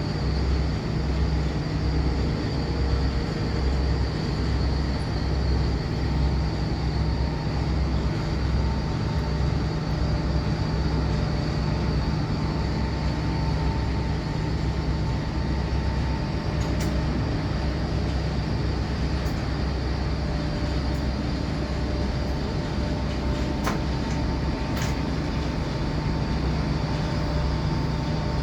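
Steady mechanical hum of heavy machinery, with a low, even throb of about two beats a second and a few faint ticks.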